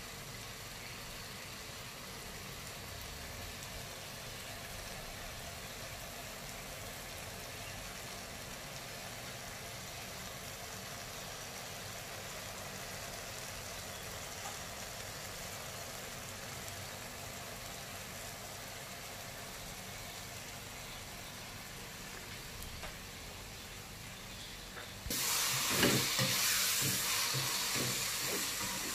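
Frying in a wok: a low, steady sizzle of hot oil. About 25 seconds in, a much louder hissing sizzle starts suddenly, as food goes into the hot oil, with a few short clatters.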